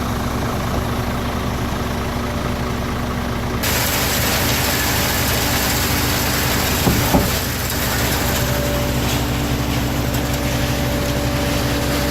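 Truck-mounted concrete pump's diesel engine running steadily. About three and a half seconds in, a broader rushing noise joins it, and there is a brief knock about seven seconds in.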